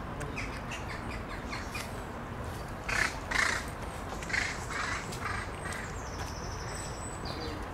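Bird calls: a run of short, harsh calls, loudest about three seconds in, then a thin high whistle near the end.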